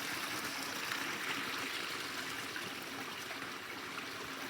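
Water running steadily through a drainage pipe that has just been cleared of a clog, with a constant splashing flow.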